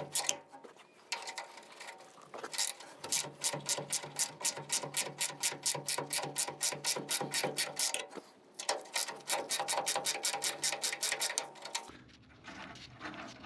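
Hand ratchet wrench clicking rapidly and evenly, about five clicks a second, in long runs with brief pauses as a nut or bolt is worked loose. The clicking stops near the end.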